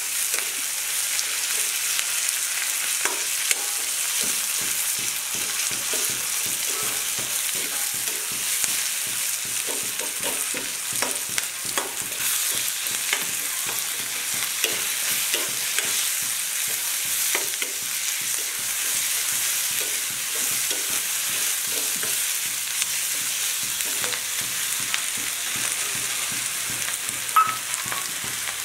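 Chopped onions sizzling in hot oil in a wok, stirred with a metal spatula that scrapes and taps against the pan in many short clicks, with one sharper knock near the end.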